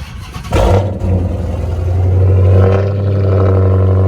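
Car engine cold-started: it fires about half a second in with a loud flare of revs, then settles into a steady, loud high idle.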